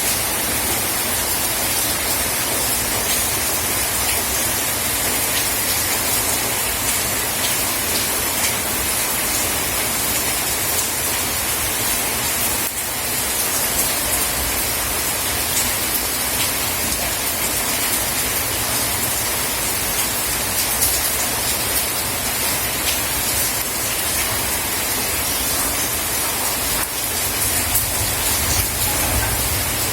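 Steady rain falling: a dense, even hiss with a fine patter of drops.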